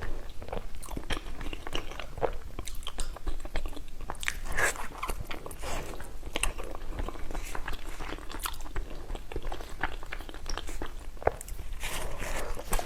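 A person chewing and eating food up close, with many irregular small mouth clicks and smacks.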